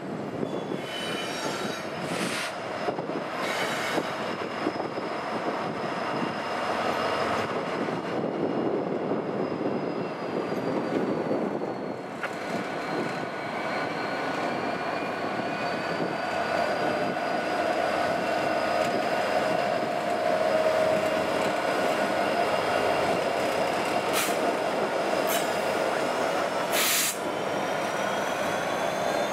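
Freight train cars rolling past on steel wheels, with wheels squealing in thin high tones that drift slowly in pitch over the steady rolling noise, and a few sharp clicks near the end.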